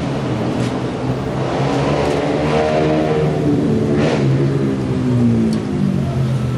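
Datsun GO+ three-cylinder petrol engine revved up once and let fall back toward idle, the pitch climbing for about a second and a half and then sinking over the next few seconds. The revving is part of a combustion-chamber carbon-cleaning treatment.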